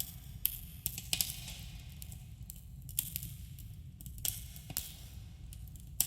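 Wood campfire crackling, with sharp pops every second or so over a steady low rumble, carrying a subtle cave echo.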